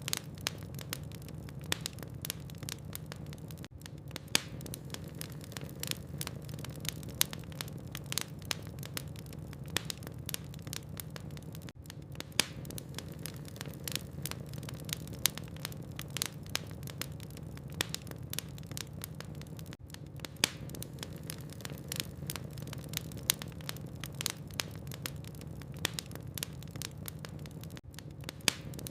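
Wood fire burning in a fireplace: logs crackling with many irregular sharp pops over a steady low hum.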